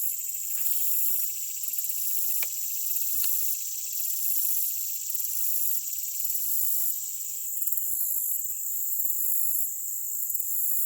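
Outdoor insect chorus of crickets and katydids: a steady high-pitched trilling with a shriller layer that pulses about once a second. A lower layer of the chorus drops out about seven seconds in, and a few faint clicks sound in the first few seconds.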